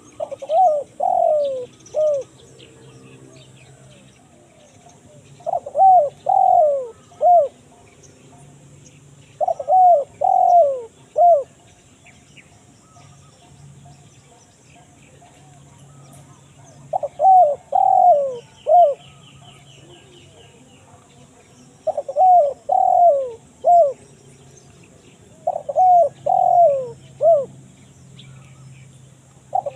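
Spotted dove (tekukur) cooing in the crisp-voiced 'kuk 1 mersik' style. Phrases of three to four notes, each note dropping in pitch, repeat about every four to five seconds. It is a lure call for drawing wild doves.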